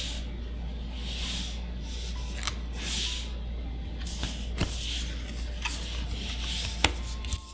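Trading cards being slid one across another during a card reveal: a soft swish about every one and a half to two seconds, with light clicks and taps of card stock, over a steady low hum.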